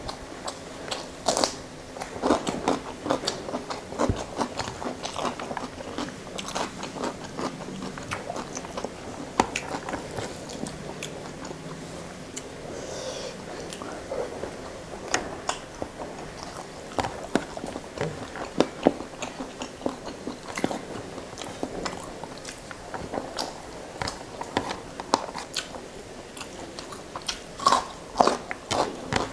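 Close-miked mouth sounds of a man eating rice and fish masala by hand: repeated wet chewing and biting with many short smacks and clicks, and now and then a crunch.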